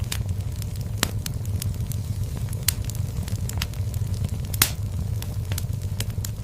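Wood fire crackling in a fireplace: a steady low rumble of flames with irregular sharp pops and snaps, the loudest about four and a half seconds in.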